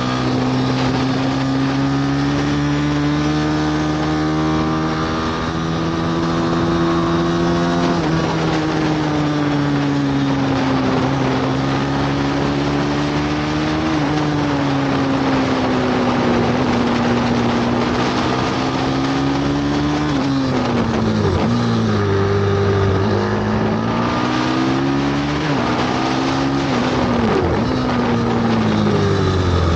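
Bucci F6 pit bike's single-cylinder four-stroke engine being ridden hard around a track. The pitch climbs under throttle and drops sharply at about 8 and 14 seconds, like upshifts. Near the end it falls and rises several times in quick succession as the throttle is shut and reopened.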